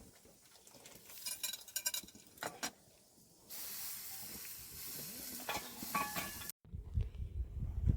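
Cooking sounds: a few light clinks of utensils against a pot, then a steady sizzling hiss for about three seconds, like food frying in hot oil, that cuts off abruptly.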